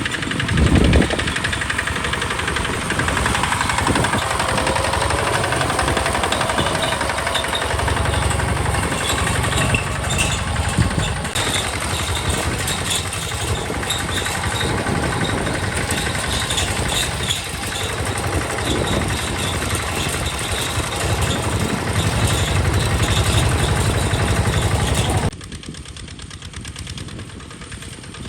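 Hinota HG Gold 155 DI tractor's diesel engine running steadily. It drops suddenly much quieter for the last few seconds.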